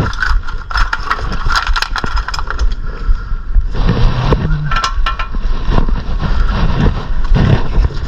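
Metal tools and brake parts clinking, knocking and scraping as they are handled, over a steady low background hum.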